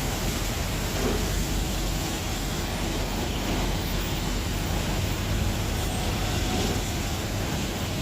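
Automatic car wash machinery running: a steady rushing noise over a low rumble.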